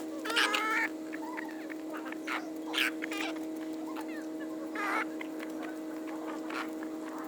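Domestic poultry calling: three separate squawks, about half a second in, near 3 s and near 5 s, over a steady low hum.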